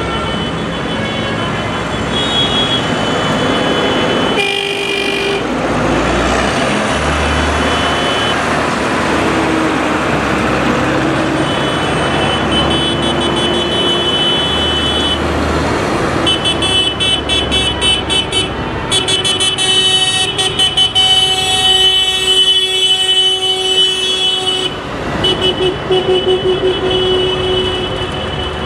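Parade tractors running past with a low engine rumble, while horns sound repeatedly in long steady tones. A fast pulsing sound joins in for several seconds past the middle.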